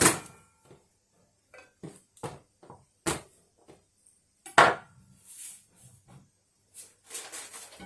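Cookware and utensils being handled while ingredients go into the ajillo pan: about a dozen separate clinks and knocks, the loudest right at the start and about four and a half seconds in, with a soft rustling hiss near the end.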